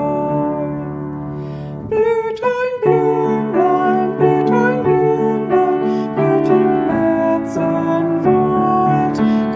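Instrumental piano music: a held chord, then from about three seconds in a melody of short notes in a steady rhythm.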